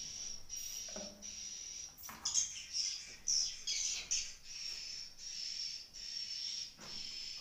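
Swiftlets' high chirping calls repeating about every two-thirds of a second, with a louder, busier spell of chirping in the middle.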